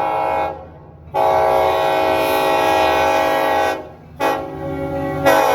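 Train's multi-chime air horn blowing repeated blasts in the long, long, short, long pattern, the grade-crossing signal. A steady low rumble runs beneath the horn.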